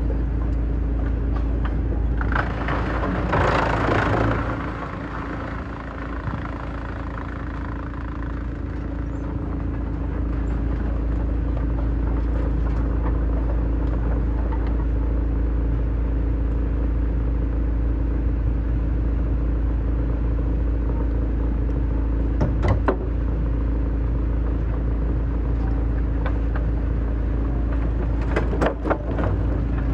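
Heavy-duty wood shredder running with a steady low drone, grinding through wood: a loud crunching burst of wood being shredded a few seconds in, then a brief drop in the machine's sound before it picks back up. A few sharp cracks of wood breaking come later and near the end.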